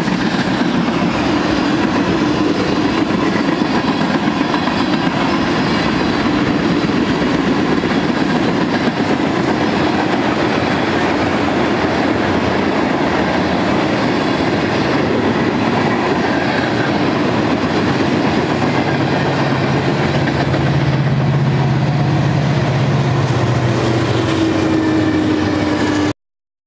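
Freight train cars rolling past: a steady, loud rumble of steel wheels on rail, the cars being refrigerated boxcars, steel-coil flatcars and tank cars. A low steady hum joins in during the last few seconds, and the sound cuts off suddenly.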